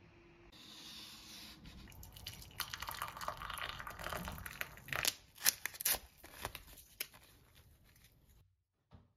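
Crinkling and tearing of paper or packaging: a hiss of rustling that turns into a quick run of sharp crackles and clicks, then stops abruptly near the end.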